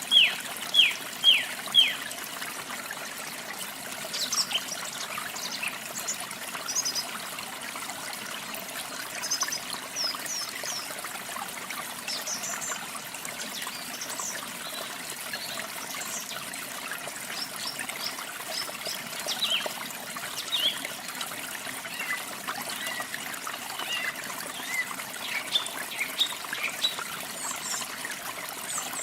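Steady rush of falling water from a waterfall, with wild birds singing over it: a quick run of four loud, falling whistled notes in the first two seconds, then scattered short chirps and trills.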